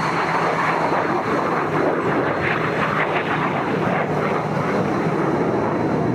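Sukhoi Su-27 jet fighter's twin turbofan engines in flight, a loud, steady jet rush.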